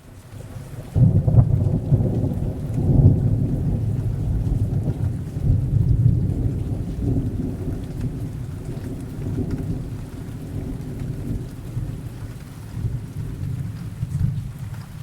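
A long roll of thunder in a rainstorm: a low rumble breaks in about a second in, swells several times, then slowly dies away with a last smaller swell near the end, over steady rain.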